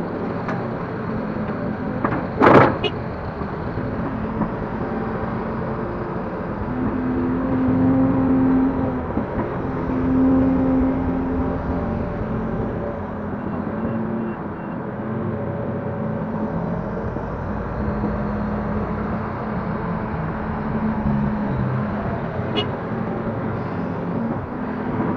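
Link-Belt 145X3E hydraulic excavator's diesel engine running steadily, swelling several times as it works, with one sharp clank about two and a half seconds in and a faint tick near the end.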